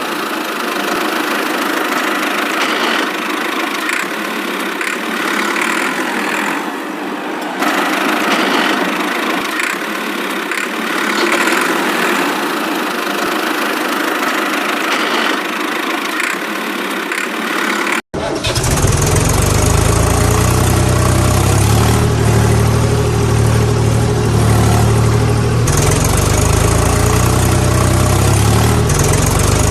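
Vehicle engine running steadily. About 18 s in the sound cuts abruptly to a louder, deeper engine running with a heavy low hum.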